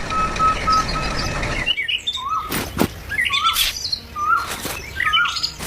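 For the first couple of seconds, a steady rumble with a rapid, regular beeping tone, like a vehicle's reversing beeper. It cuts off suddenly, and songbirds chirp in short repeated calls, with a few sharp swishing clicks among them.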